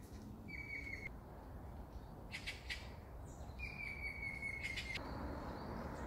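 A songbird whistling two long, steady notes, the second longer and falling slightly in pitch, with a few sharp ticks between them over a low, steady rumble.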